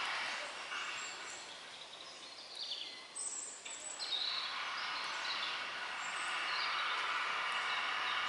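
Outdoor ambience: a steady background hiss, with birds chirping now and then. The hiss thins out for a couple of seconds in the middle.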